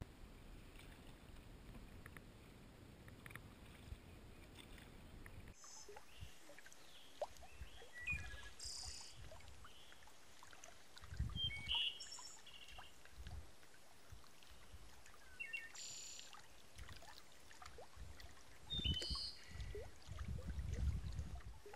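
Faint outdoor ambience with small birds giving short chirping calls several times, and a few low rumbles lasting about a second each. The first few seconds hold only a faint steady hiss.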